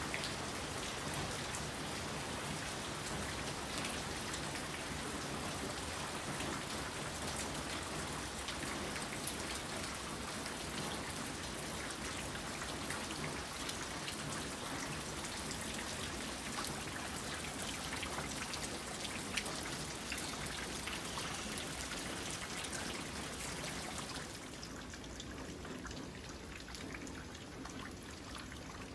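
Steady rainfall, many individual drops landing close by on wet ground. The rain sound gets quieter about 24 seconds in.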